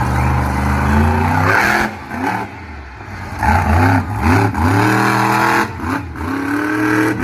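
Monster truck engine revving hard again and again, its pitch climbing and falling with each burst of throttle, with a brief easing off around two seconds in.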